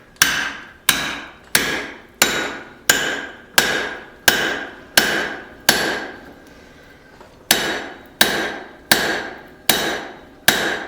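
Hand hammer striking a punch to expand a freshly punched hole in hot tong steel, the blows ringing on the anvil. Evenly paced strikes about one and a half a second, nine in a row, a short pause, then five more.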